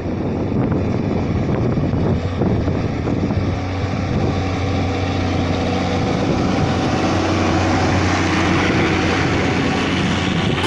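Ursus 1614 tractor's diesel engine running hard under steady load while ploughing. The level builds over the first couple of seconds, then holds as an even, heavy drone with a strong low hum.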